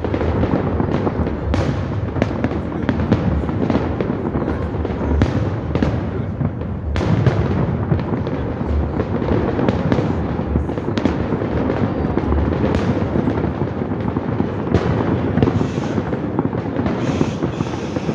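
Fireworks display: a continuous barrage of aerial shells bursting, a dense run of bangs and crackle with a short lull about seven seconds in.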